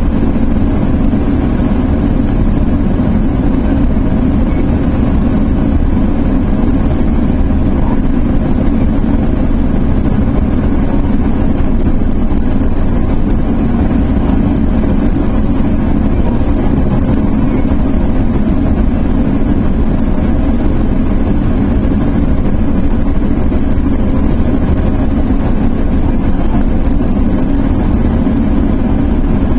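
Sounder commuter train running at speed, heard from aboard: a steady, loud rumble of wheels on rail and running noise that does not change.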